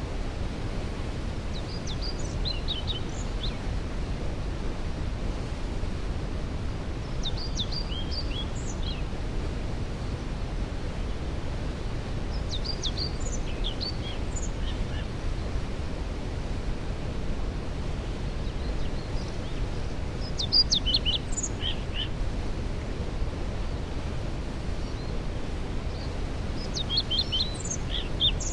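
Waterfall rushing as a steady deep noise, with songbirds singing short phrases every few seconds over it.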